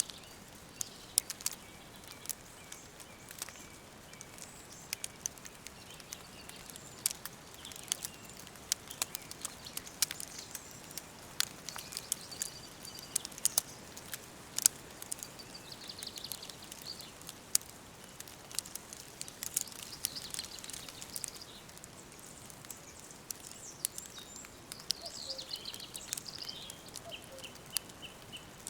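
Woodland ambience: birds singing and calling over a steady hiss, with frequent sharp crackles throughout. Near the end one bird gives a quick run of short repeated notes.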